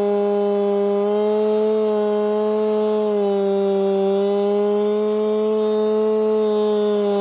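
Chainsaw fitted with a beam mill, running at steady high revs as it rips lengthwise through a log. The engine note holds nearly constant, dipping and rising a little as the cut loads the saw.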